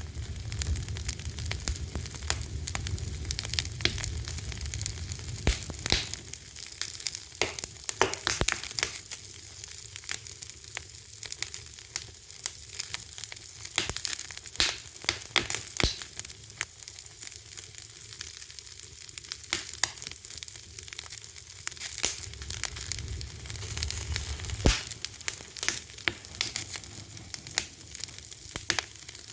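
Fire crackling: a steady hiss with frequent sharp pops and snaps of burning fuel, and a low rumble of the flames at the start and again about twenty-two seconds in.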